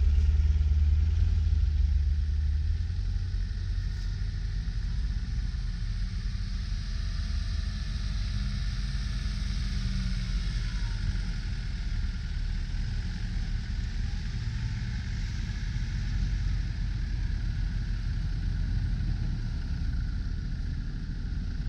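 Mercedes G-Class V8 engine rumbling as it drives through deep snow, loud at first and fading after about three seconds. After that, a quieter 4x4 engine runs steadily as another off-roader works along the snowy track.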